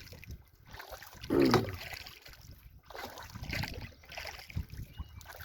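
Strokes of a double-bladed paddle pulling a canoe through lake water: a swell of splashing and dripping every second or two, the strongest about a second and a half in.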